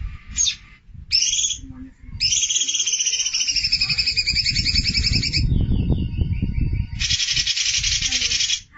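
Recorded songbird song played as a training track for cage birds: a few short rising chirps, then a long, fast trilling phrase, and near the end a dense buzzy rattle.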